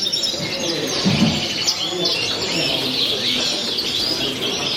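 A hall full of caged show birds, finches and canaries among them, chirping and twittering all at once in a dense, overlapping chorus of short high calls.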